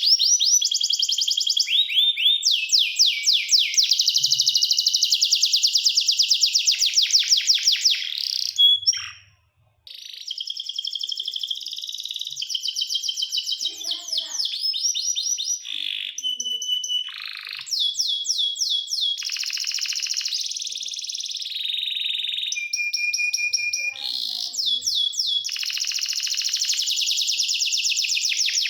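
Domestic canary singing: long runs of rapid trilled notes, many sweeping down in pitch, broken by held whistled notes, with a brief pause about nine seconds in.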